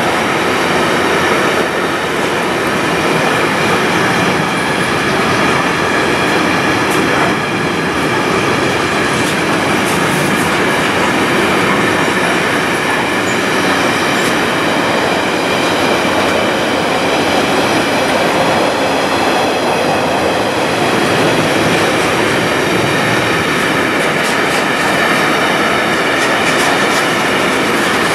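Intermodal freight train's container flat wagons rolling past: a loud, steady rush of steel wheels on rail, with a few faint clicks from the wheels over the track.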